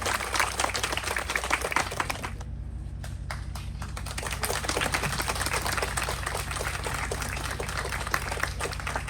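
Audience applauding: many people clapping steadily, over a low steady hum.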